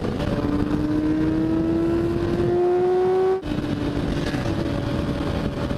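Yamaha YZF-R6's inline-four engine pulling hard in gear at highway speed, its pitch rising steadily, then a brief cut and a drop in pitch about three and a half seconds in as it shifts up. Wind noise rushes over the bike-mounted microphone throughout.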